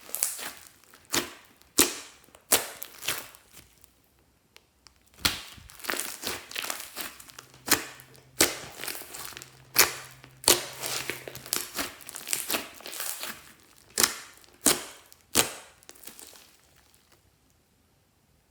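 Glossy slime being squished and stretched by hand, with sharp pops and crackling clicks as air pockets in it burst. The sounds stop shortly before the end.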